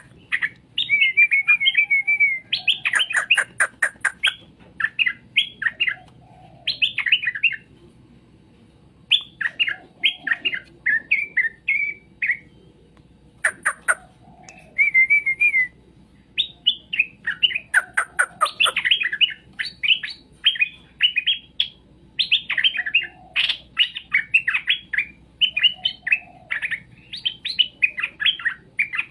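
Straw-headed bulbul (cucak rowo) singing: repeated phrases of quick, bright whistled notes broken by short pauses. Short bursts of rapid clicking come in a few times.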